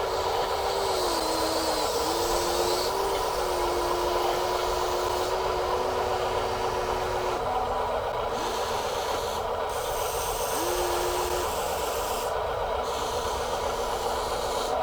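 Small electric motors and gearboxes of radio-controlled construction toys whining and grinding, the motor pitch dipping and shifting several times as they work.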